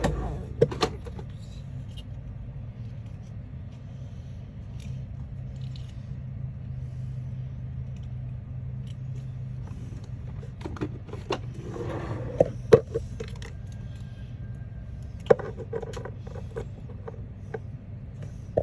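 Scattered clicks, taps and rustling of small objects being handled, over a steady low hum.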